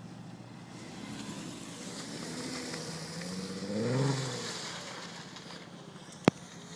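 Volkswagen 4Motion car's engine pulling off-road, its pitch rising to a peak about four seconds in and then falling away as the throttle eases. A single sharp click near the end.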